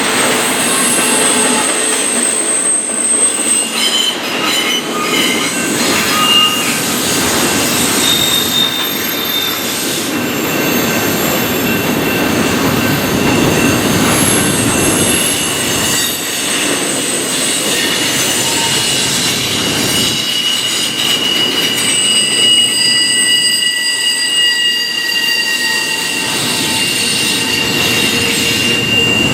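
Freight cars rolling past with their steel wheels squealing on the rails: several steady, high-pitched squeals that come and go over the rumble of the train.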